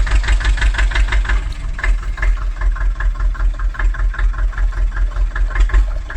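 Remote-control mini tractor running with a steady, rapid chugging engine sound, several beats a second.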